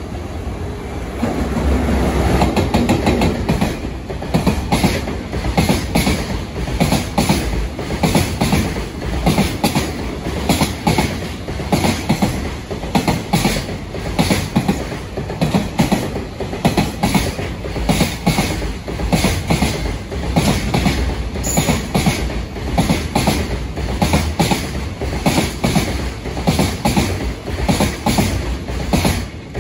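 A JR Freight EF210 electric locomotive passes, followed by a long string of container wagons whose wheels clack rhythmically over the rail joints. The locomotive going by in the first few seconds is the loudest part. The clatter drops away at the very end as the last wagon clears.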